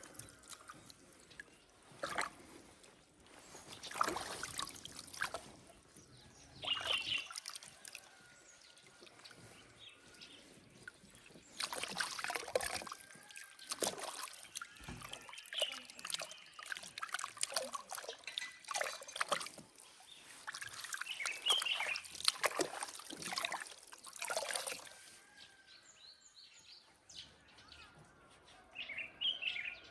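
Water sloshing and dribbling in a basin in irregular splashes as a call duck's muddy feet and belly are washed by hand.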